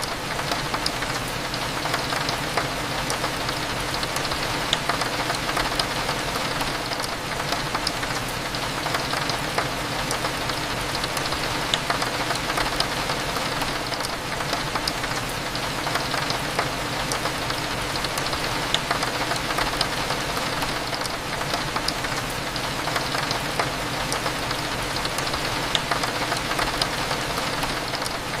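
Steady rain, with many small drops tapping on a window, over a low, steady hum.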